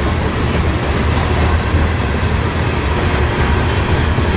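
Covered hopper cars of a freight train rolling past on the rails, a steady low rumble. There is a brief high squeal about one and a half seconds in.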